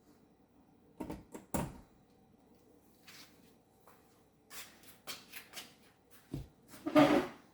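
Knocks and clicks of a plastic sewing machine and its parts being handled, in several scattered bursts, the loudest near the end; the machine's motor is not running.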